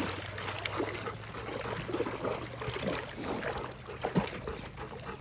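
Water trickling and splashing with many small irregular splashes, as a dog wades in open water that would normally be frozen.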